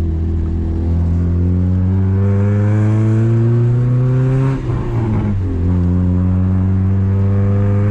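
Honda Civic 1.6 four-cylinder engine heard from inside the cabin, its note rising steadily as the car accelerates in gear. About four and a half seconds in, the note breaks off briefly for an upshift, then rises again from a lower pitch.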